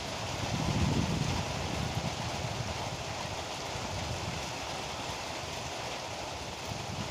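Heavy rain pouring steadily in a storm. A low rumble swells and fades about a second in.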